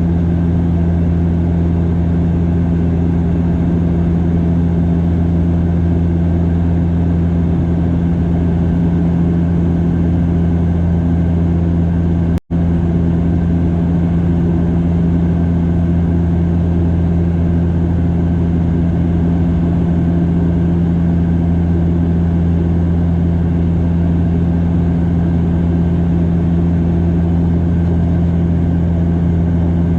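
Steady drone of a Bombardier DHC8-Q400's Pratt & Whitney PW150A turboprop engines and six-bladed propellers heard inside the passenger cabin in flight, an even, deep hum. The sound cuts out for an instant about halfway through and comes straight back.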